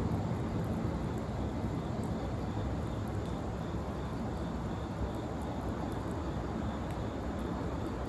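Wood fire burning in a fire pit: a steady low rush with faint scattered crackles.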